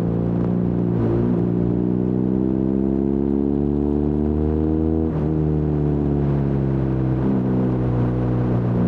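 BMW R nineT's air-cooled boxer twin through its stock Akrapovič exhaust with the baffle removed, running loud; the engine note climbs steadily in pitch for several seconds, then drops sharply about five seconds in and dips briefly again near the end.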